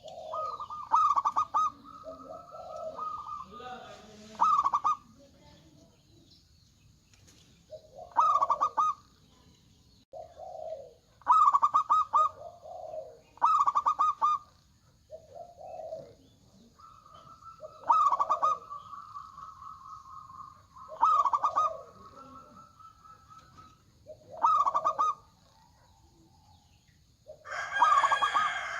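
Zebra doves (perkutut) singing: repeated phrases of low coos, each ending in a rapid rolling trill, with a few longer trilled notes. A rooster crows near the end.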